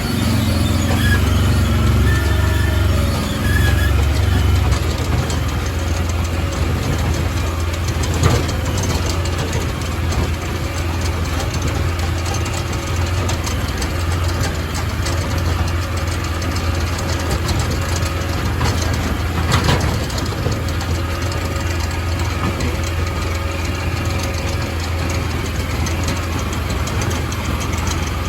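Crawfish boat's engine running steadily, a little louder for the first few seconds, with two sharp knocks, one about 8 seconds in and one about 20 seconds in.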